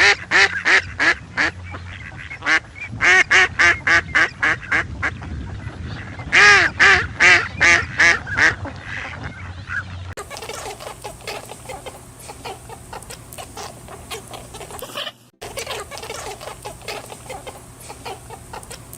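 Ducks quacking in quick runs of loud calls, several a second. About ten seconds in, after a cut, this gives way to a quieter, busier chatter of many short calls.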